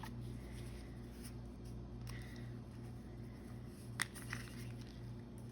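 Soft handling of paper and craft materials on a tabletop over a steady low electrical hum, with a sharp tap about four seconds in and a lighter one just after.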